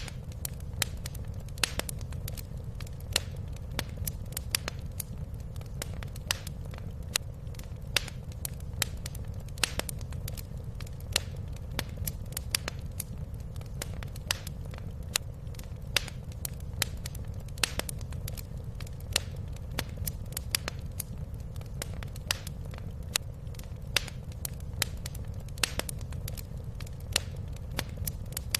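Wood fire crackling in a fireplace: frequent, irregular sharp pops over a steady low rumble.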